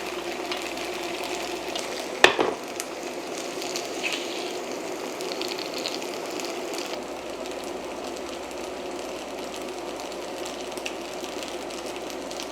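A pan of food sizzling in a runny Korean seasoning sauce (yangnyeom), steady throughout, with one sharp knock about two seconds in.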